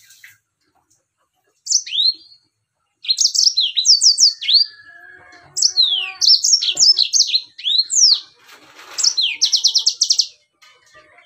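Yellow-fronted canary (Mozambique singer) singing in bursts of high, quick chirps and downward-sweeping notes, with a fast trill of repeated notes near the end.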